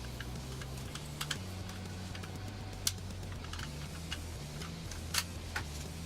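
Light, sharp clicks and taps of small hard parts being handled and fitted during PC assembly, a handful at irregular intervals, the loudest a little after the five-second mark.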